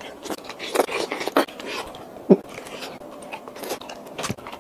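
Close-up eating sounds of a person biting and chewing a large beef meatball (bakso) in spicy broth: scattered wet smacks and clicks of the mouth, with one sharper smack about two seconds in.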